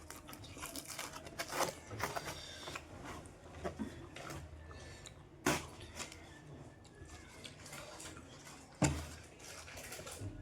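Close-up eating sounds: crunching and chewing of jhalmuri, a spiced puffed-rice snack, with scattered small clicks and crackles and two louder sharp knocks, one about five seconds in and one near the end.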